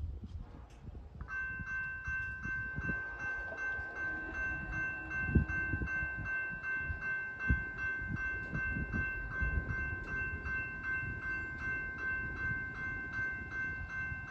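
Railroad grade-crossing bell starts ringing about a second in as the crossing activates for an approaching train, with an even clang about twice a second. Low rumbling and a couple of thumps sit underneath.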